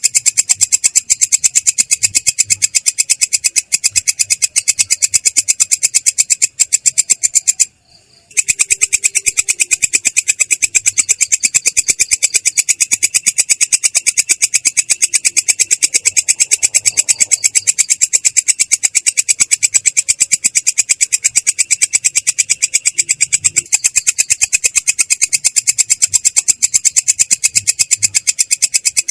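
Belalang kecek katydid calling in a continuous rolling trill: rapid, evenly spaced, harsh high-pitched pulses, breaking off briefly about eight seconds in.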